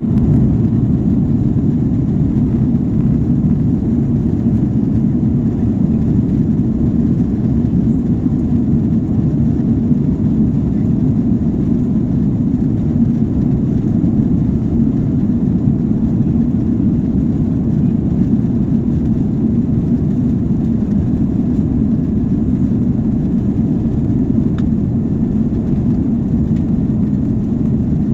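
Aircraft noise during a takeoff: a loud, steady low rumble of engines and airflow that holds even throughout, without a clear rise or fall.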